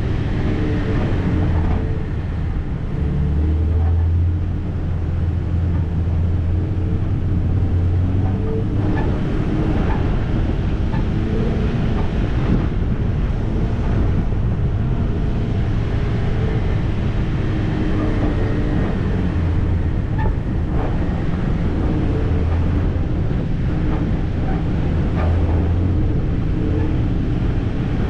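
Off-road vehicle's engine running at low revs while driving, its low hum rising and falling a little, with scattered knocks and rattles.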